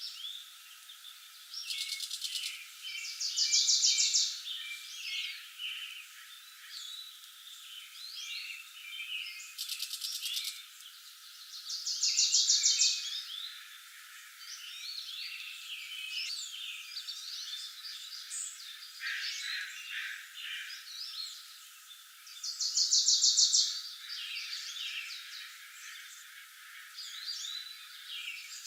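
Several forest birds singing, with many short chirps and a loud, fast trill about a second and a half long that comes back roughly every ten seconds. Twice, a brief rapid rattle of clicks.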